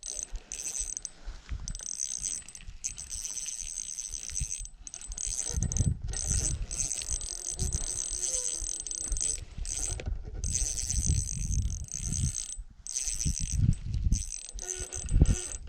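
Fishing reel clicking and whirring while a hooked trout is reeled in and played, with low thumps of handling or wind on the microphone.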